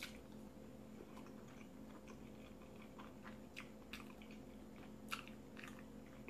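Faint close-up chewing of a mouthful of food, with soft wet mouth clicks every half second to a second. A low steady hum sits underneath.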